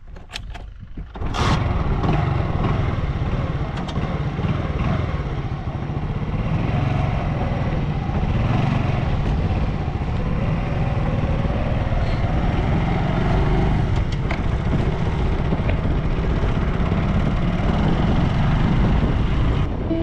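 Motorcycle engine running steadily on the move, coming in suddenly about a second in after a few faint clicks.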